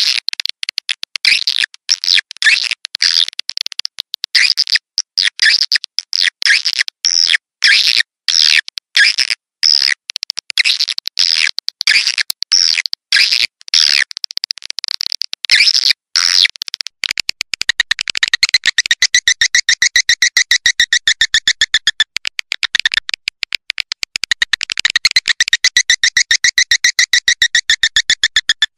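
Recorded swiftlet lure call, the kind played to draw edible-nest swiftlets into a bird house: a rapid series of high chirps and twitters. About seventeen seconds in it changes to a steady, very fast buzzing trill.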